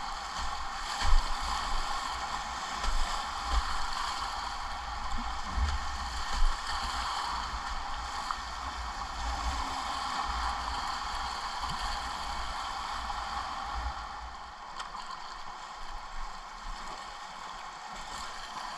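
Steady rush of river whitewater around a kayak, with irregular low thumps throughout, the loudest about a second in and again around six seconds; the rush eases a little near the end.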